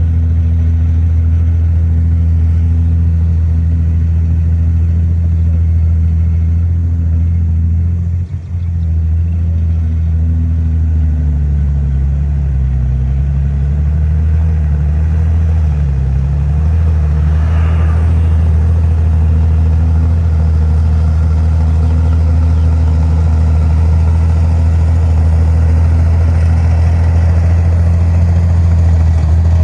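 Heavy diesel earthmoving engine running steadily and loudly. Its pitch wavers up and down for several seconds in the middle as the load changes, with a brief dip in loudness about eight seconds in.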